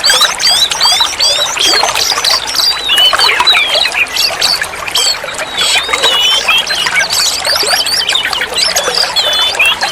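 Oriental magpie-robin (kacer) singing a long, varied song of rapid whistled notes and quick up-and-down glides, with several phrases overlapping densely.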